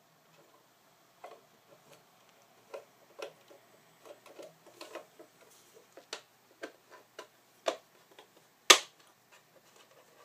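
Irregular small clicks and taps of the feet and stand of a hard-drive enclosure being handled and fitted, with one louder, sharper click near the end.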